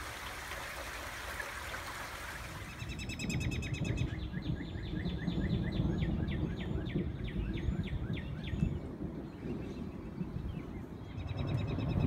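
Steady spring rain hiss, then songbirds singing: a rapid high trill about three seconds in, followed by a run of quick repeated notes, about four or five a second, for several seconds. A low rumble sits underneath from about three seconds on.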